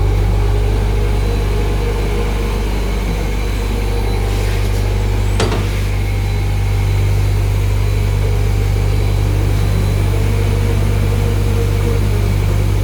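Automatic pull-out tissue folding machine running steadily, a deep hum under a steady mid-pitched drone, with one sharp click about five seconds in.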